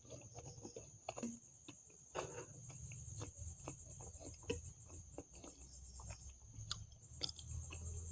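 A person chewing food close to the microphone: irregular soft wet clicks and mouth smacks.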